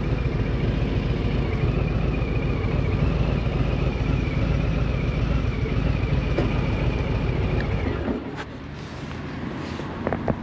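Vehicle engine running steadily, then falling away about eight seconds in, followed by a few short clicks.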